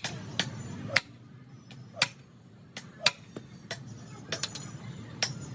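A run of sharp knocks from hand tools striking wood in wooden-wheel work, irregularly spaced at about one or two a second, some with a brief ring after them.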